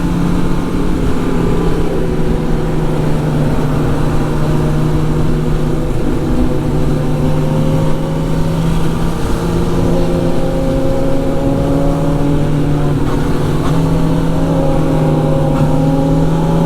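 Motorcycle engine running at a steady cruise, its note drifting gently up and down, over a constant low rush of road and wind noise.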